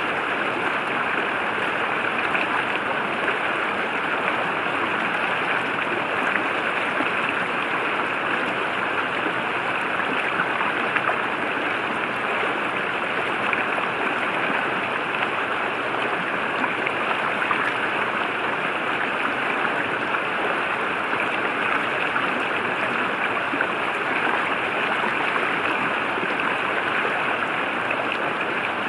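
A forest river flowing steadily, a continuous even rush of water.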